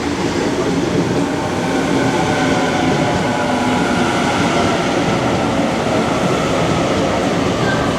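Electric suburban train running through the station: a dense rumble with several steady whining tones over it, growing louder over the first couple of seconds and then holding.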